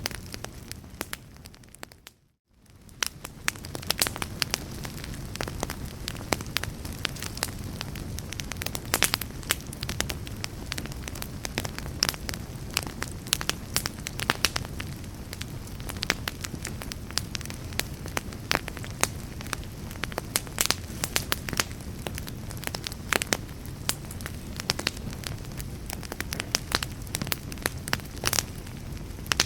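Fire crackling: a steady low rumble with many sharp pops and snaps scattered throughout. About two seconds in, the sound fades briefly to near silence, then swells back up.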